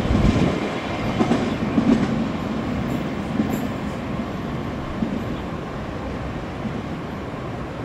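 Freight train rolling past on the rails, its wheels clacking over rail joints with irregular thumps. The sound grows gradually quieter.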